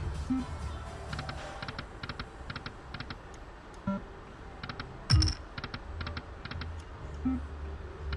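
Lightning Link slot machine's electronic sound effects: quick runs of clicking ticks as the reels spin and land, with a few soft thumps, the loudest about five seconds in.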